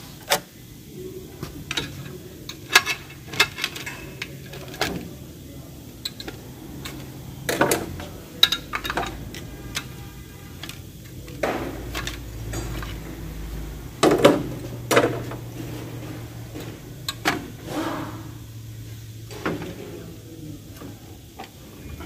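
Metal parts and hand tools clinking and knocking at irregular intervals as a dual-clutch transmission is dismantled by hand, with the loudest knocks a few seconds in, around the middle and about two-thirds through.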